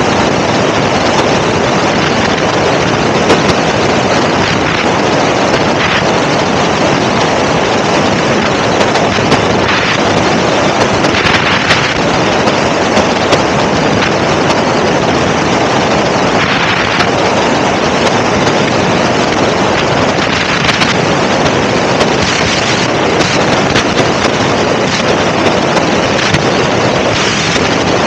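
Helicopter in flight: a loud, steady rushing drone of engine and wind noise that does not let up.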